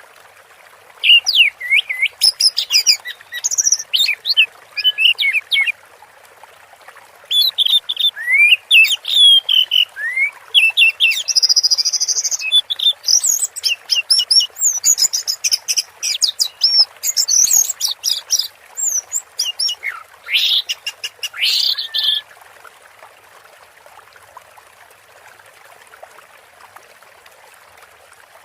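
Orange-headed thrush singing in rapid, varied phrases of quick sliding whistles and chips, in two long bouts with a short pause between them, then falling silent about 22 seconds in, leaving a steady background hiss.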